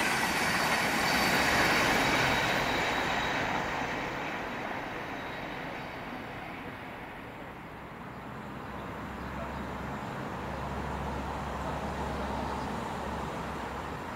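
LNER Azuma Class 801 electric train passing at speed, its rushing wheel and air noise fading away over several seconds. Then a Thameslink Class 700 electric unit approaches as a quieter rumble with a low hum that builds slightly.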